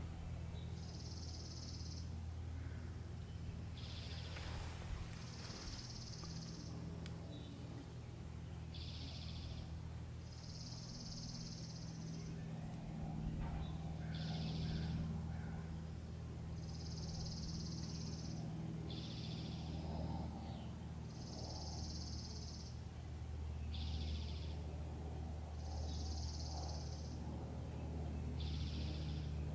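A bird's buzzy song: each phrase is a lower buzz about a second long, followed by a higher, longer buzz, repeating about every five seconds over a steady low hum.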